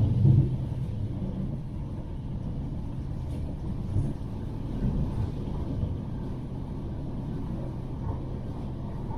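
Bombardier M5000 light-rail tram running along the track: a steady low rumble of wheels and running gear. It is louder in the first moment, then settles to an even level.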